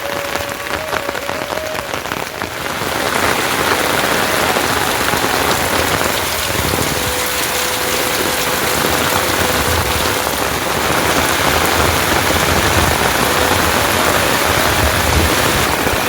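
Heavy rain falling steadily, a dense even hiss that grows a little fuller after the first few seconds.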